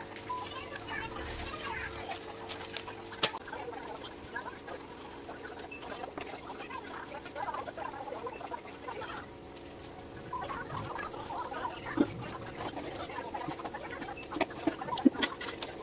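Chickens clucking on and off, with a few sharp clicks, most of them near the end.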